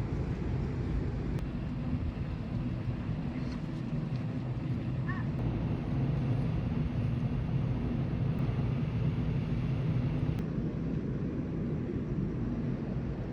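Large car ferry's engines running as the ship gets under way: a steady low rumble with a hum.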